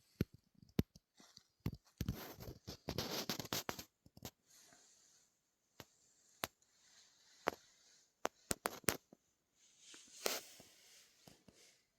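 Scattered sharp clicks and short bursts of rustling, irregular, with near-silent gaps between them.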